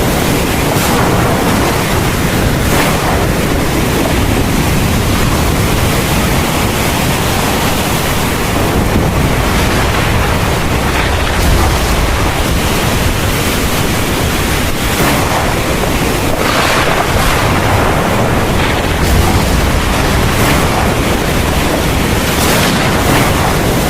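Heavy rain pouring steadily in a thunderstorm, with wind.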